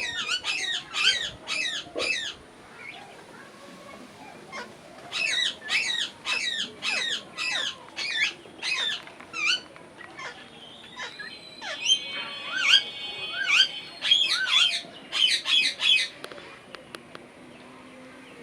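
Parrot chirping in quick runs of short, wavering calls, about two to three a second, with some longer whistled notes mixed in during the second half.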